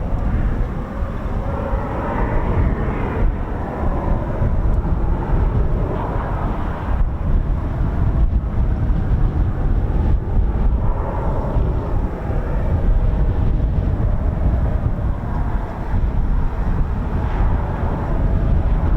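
Jet noise from a Boeing P-8 Poseidon's two CFM56 turbofans during its departure, under heavy wind buffeting on the microphone.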